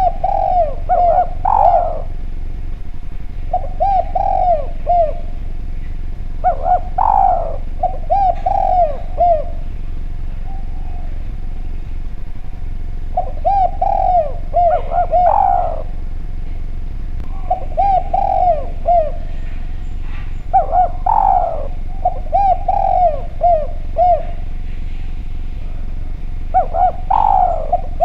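Derkuku (Javanese spotted dove) cooing: phrases of several short, clear coo notes, repeated with pauses of a second or more between them.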